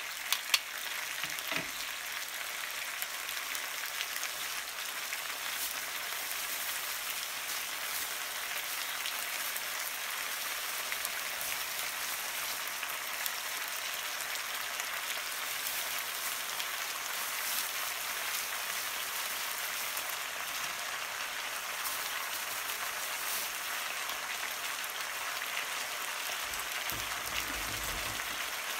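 Sliced potatoes and vegetables sizzling in oil in a frying pan: a steady hiss, with a few sharp knocks of a wooden spatula against the pan in the first couple of seconds.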